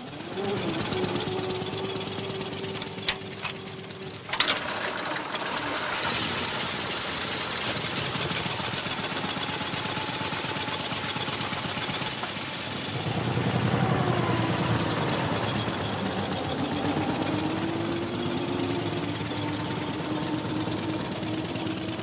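Veteran car's petrol engine running with a fast, even knocking beat, with a sharp bang about four seconds in.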